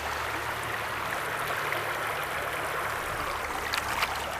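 River water rushing steadily, with a couple of brief splashes near the end.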